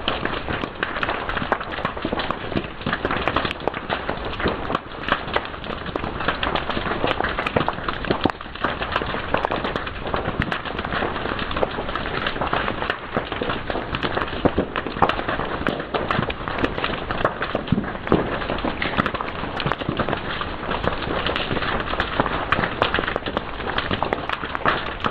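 Fire crackling, a steady dense run of small pops and snaps.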